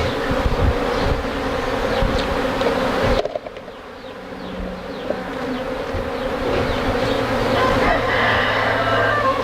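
A large number of honeybees buzzing in a steady hum as their colony is being removed. The level drops suddenly about three seconds in and then builds back up. Low rumbling sits under the buzz before the drop.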